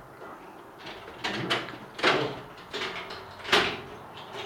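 A few sharp knocks or clacks, irregularly spaced about a second apart.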